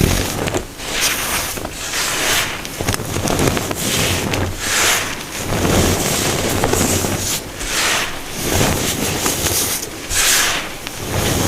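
Baking soda being crunched and squeezed by hand, in repeated crisp crunches about once a second.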